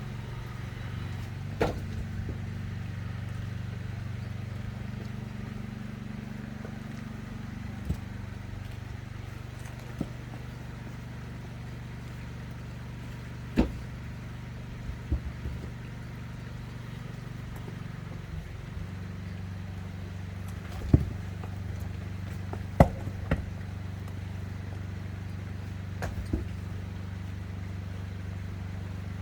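An engine idling steadily with a low hum, its pitch shifting slightly about two-thirds of the way through, with several short sharp knocks over it.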